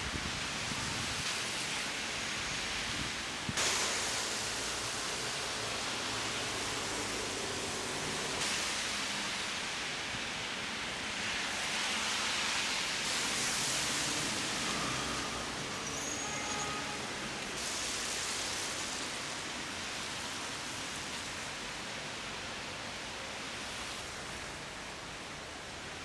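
Steady outdoor background noise, a hiss like wind or distant traffic, that changes in character abruptly every few seconds, with a few faint short tones around the middle.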